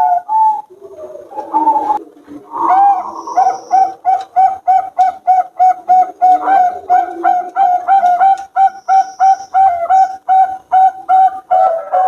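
Zebra doves (perkutut) cooing. A lower, softer cooing in the first seconds gives way, about three seconds in, to a long run of short, evenly spaced coos, about four or five a second.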